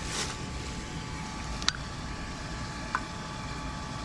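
Pork and ginger frying in a wok, with a steady low rumble, a short hiss at the start and two sharp clinks, one near the middle and one about three seconds in.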